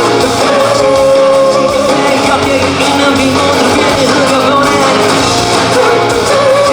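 Live rock band performance of a song: full band playing with singing and long held sung notes, loud and continuous.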